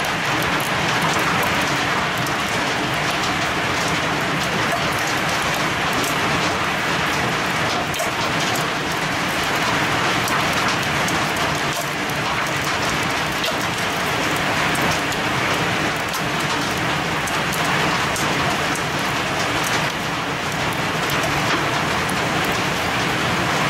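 Heavy rain pouring steadily, striking and splashing on a ledge and railing, with many small sharp hits throughout.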